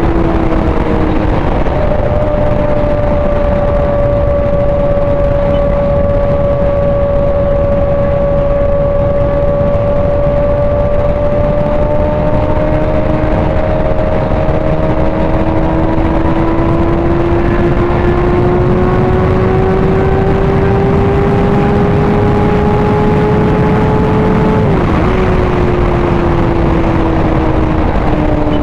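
Sport motorcycle engine running at highway speed under heavy wind rush on the camera. Its pitch climbs slowly, then dips sharply for a moment near the end and eases off.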